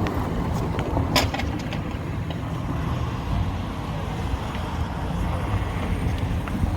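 A motor vehicle engine running steadily with a low rumble, and a few sharp clicks about a second in.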